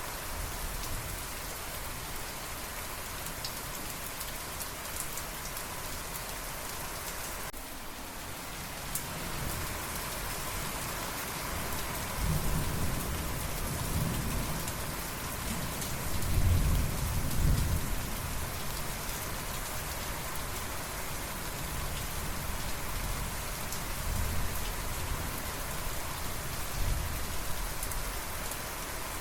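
Steady rain falling, with rolling thunder that builds from about twelve seconds in, is loudest a little past the middle, and comes back fainter in a few low rumbles near the end. The rain dips briefly about eight seconds in.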